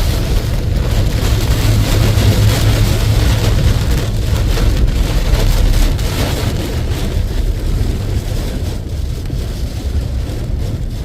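Heavy rain pouring down in strong wind: a steady rushing noise with a deep rumble of wind on the microphone, easing a little after about six seconds.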